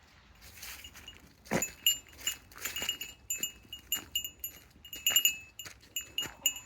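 Small metal bell or chime tinkling over and over in irregular strikes, each a short clink with a bright ringing tone.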